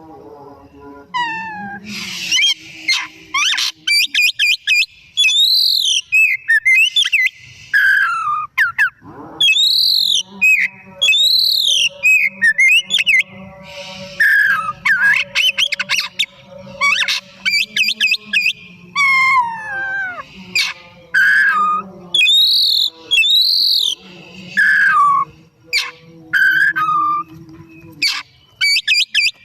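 Oriental magpie-robin (kacer) singing a long, varied song of loud whistled notes that sweep up and down, strung into quick phrases with short gaps.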